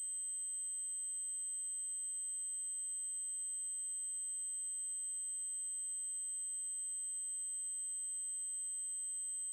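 Continuous high-pitched 8192 Hz triangle-wave test tone, steady in pitch and level.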